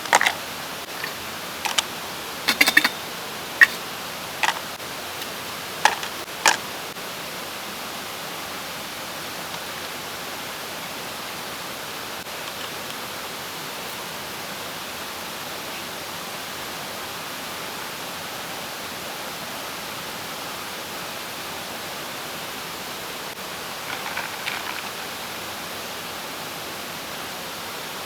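Steady rushing of a mountain stream. A handful of sharp clicks and knocks are heard in the first seven seconds and again briefly near the end.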